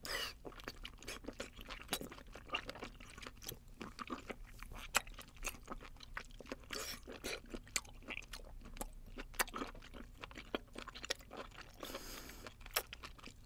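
Close-miked chewing of boiled octopus tentacle: many irregular wet mouth clicks and smacks, with a short breathy rustle near the end.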